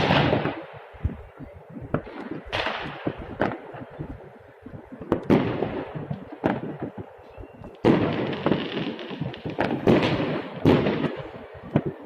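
Fireworks display: aerial shells bursting one after another, a sharp bang every second or two at irregular intervals, each trailing off in a long fading echo.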